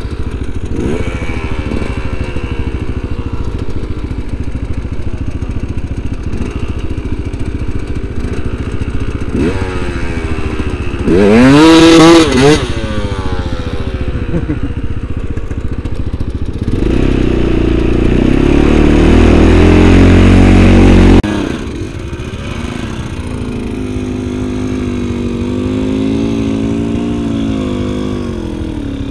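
Snowmobile engine running under load through snow, its pitch rising and falling with the throttle. About eleven seconds in the engine revs sharply up and back down, and from about seventeen seconds it holds a loud high rev before dropping off suddenly a few seconds later.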